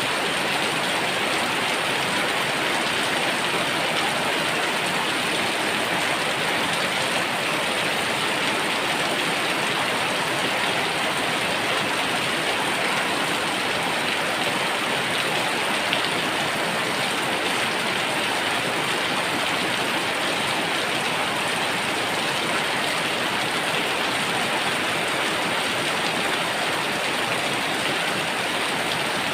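Heavy rain falling steadily, a dense even hiss with no break or change in loudness.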